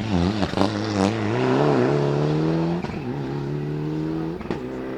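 Rally car engine blipping on and off the throttle with a few sharp cracks, then accelerating hard: the pitch rises, drops at an upshift about 3 s in, rises again and drops at a second upshift near the end.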